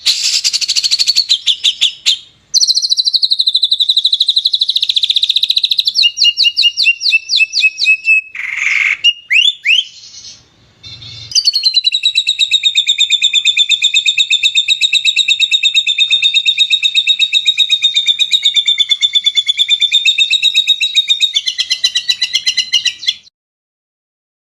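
Songbird song from a masteran compilation of rapid, shot-like 'tembakan' phrases. It is loud, fast and high, made of repeated notes and trills that change abruptly from one phrase to the next. After a short break about ten seconds in, one long rapid trill follows and stops shortly before the end.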